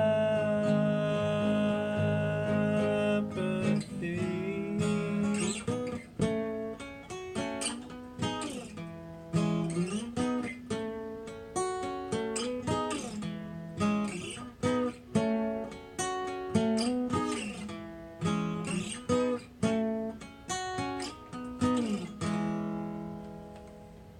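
Acoustic guitar playing the instrumental ending of a song: single picked notes, some sliding or bending in pitch, then a final chord near the end that rings and fades away.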